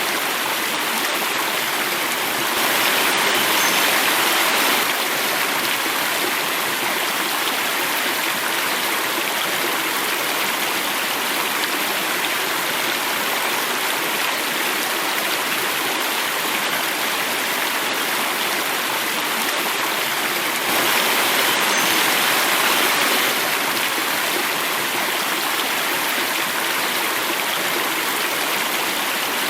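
Water running and falling in a stream or small cascade: a steady rush that swells a little louder twice, about three seconds in and again about twenty-one seconds in.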